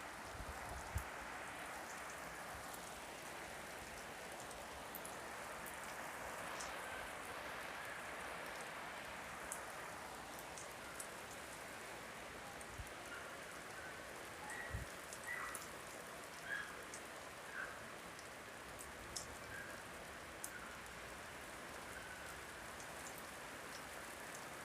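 Steady rain falling, an even hiss with scattered drips and ticks.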